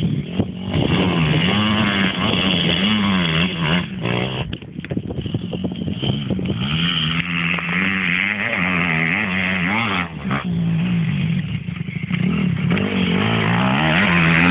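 Motocross motorcycle engine revving up and down as it is ridden round the track, the pitch repeatedly rising and falling with throttle and gear changes, with a short drop in level about four and a half seconds in and again near ten seconds.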